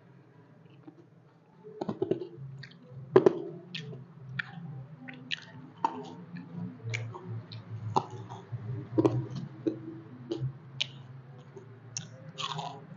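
Roast chicken being chewed close to the microphone: irregular sharp mouth clicks and wet squishes, starting after a quiet second and a half.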